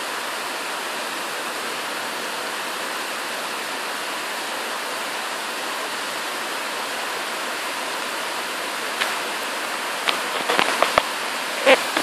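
Heavy tropical-storm rain pouring down hard, a steady dense hiss. In the last few seconds it is broken by several sharp knocks and taps.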